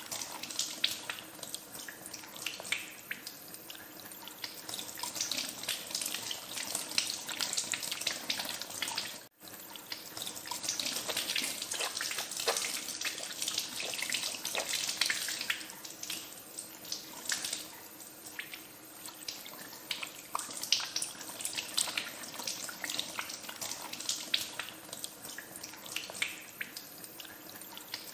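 Water running from a tap into a sink while hands are washed under it, the steady rush broken by irregular splashes. The sound cuts out for an instant about nine seconds in, then carries on.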